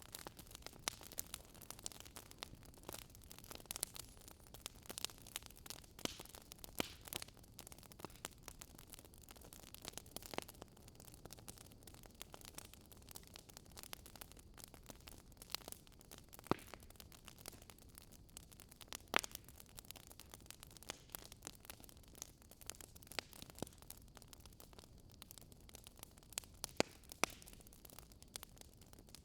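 Campfire crackling: irregular sharp pops and snaps of burning wood over a low steady hiss, the pops coming thick in the first ten seconds and more sparsely after.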